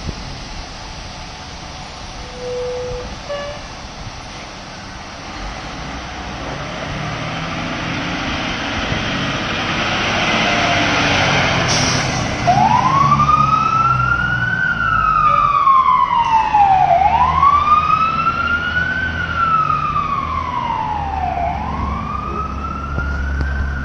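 Fire engine responding: its engine and road noise grow louder over the first half, then from about halfway its siren sounds a slow wail, rising and falling in pitch roughly every four to five seconds.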